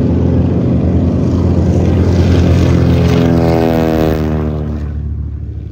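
Propeller aircraft flying past, its engine loud and then dropping in pitch as it goes by, fading toward the end.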